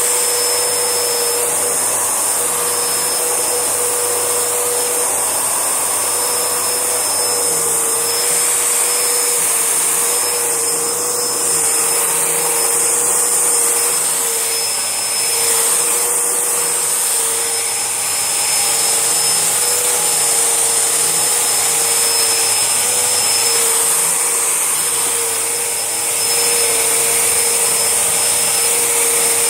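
Panasonic MC-E4103 twin-cylinder bagless vacuum cleaner running steadily over carpet, with a steady motor whine over a strong airflow hiss.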